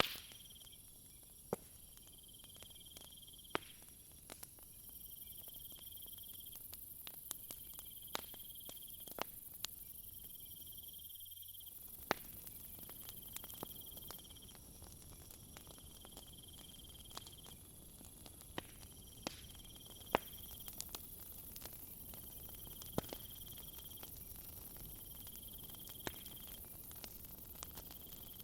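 Night insect chorus of crickets: a steady shrill high hum with a chirping call repeating about every three seconds. Over it come scattered sharp pops and crackles from a wood fire.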